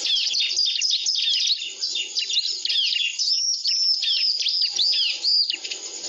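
Bar-winged prinia (ciblek) calling: a fast, continuous series of loud, high chirps, many sliding down in pitch.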